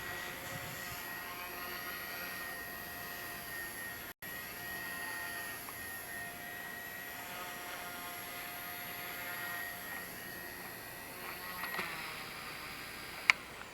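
XK Blast K110 RC helicopter's brushless motor and rotors running with a steady whine, the pitch wavering slightly, as it is brought in to land. A sharp click near the end.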